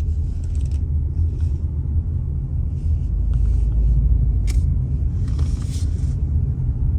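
Steady low rumble of a car driving, with a brief click about four and a half seconds in.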